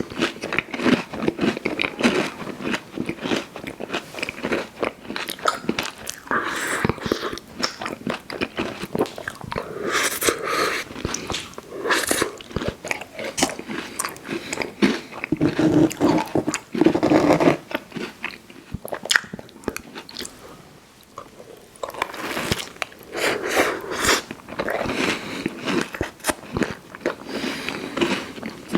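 Close-miked eating of a fast-food dessert pie: crunchy bites into the crust and wet chewing, with many small crackles. There is a short lull about two-thirds of the way through.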